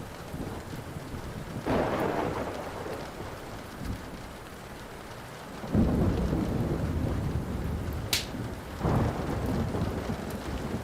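Thunder rolling over steady rain: a rumble about two seconds in, a louder, deeper rolling peal from about six seconds in, and another burst near nine seconds. A single sharp click sounds shortly before the last burst.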